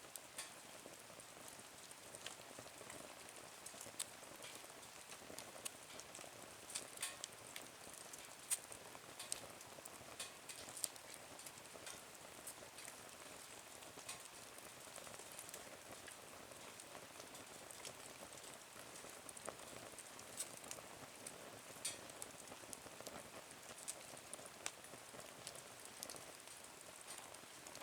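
Small wood fire burning in a Nature Stove, giving a faint steady hiss with scattered sharp crackles and pops, which come thickest a few seconds in.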